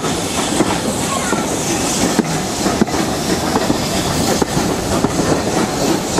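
Running noise of a heritage railway carriage in motion, heard from inside the coach: a steady rumble of wheels on the track with a few sharp clicks over the rail joints.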